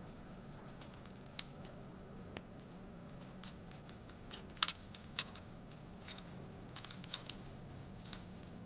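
Scattered light clicks and ticks from small tools and parts being handled, the sharpest about halfway through, over a faint steady hum.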